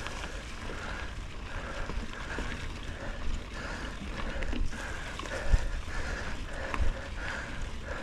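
A horse moving at a steady gait, its strides sounding in a regular rhythm of about two a second, with wind rushing on the microphone and a couple of louder thumps past the middle.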